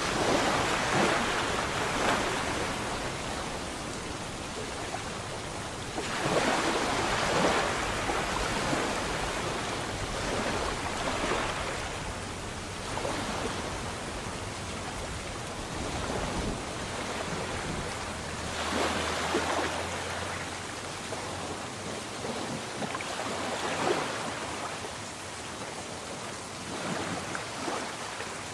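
Sea waves breaking and washing in, swelling into a louder surge every few seconds with a steady hiss of water between them.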